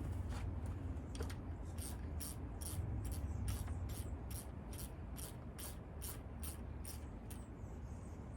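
A hand ratchet wrench clicking in an even rhythm, about three clicks a second, from about two seconds in until near the end, over a low steady rumble.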